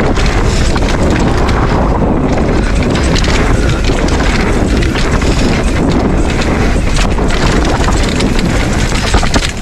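Heavy wind buffeting the microphone as a Specialized Stumpjumper Evo mountain bike rides along dirt trail, with tyre roar and steady clicking and rattling from the bike over rough ground.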